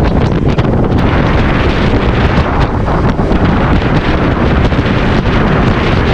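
Heavy wind buffeting the microphone on a small aluminium boat running flat out, with the drone of the boat and its Yamaha F75 outboard underneath.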